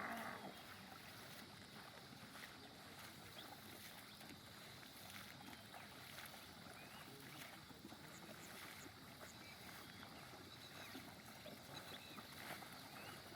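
Near silence: faint, even outdoor background noise with a few short, faint chirps.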